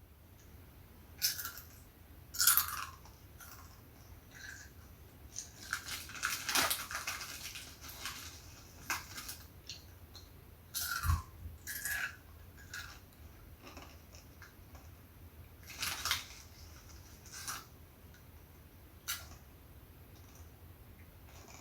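A crunchy snack and its packaging, likely Saeukkang shrimp crackers, crinkling and crunching in irregular crisp bursts. One dull thump comes about eleven seconds in.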